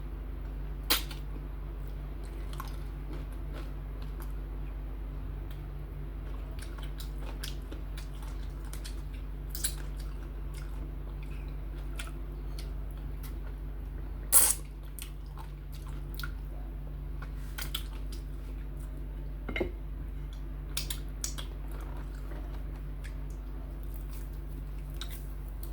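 Someone eating okra soup with fufu and chicken: a few scattered wet squishes and clicks of chewing and biting, the loudest about halfway through, over a steady low hum.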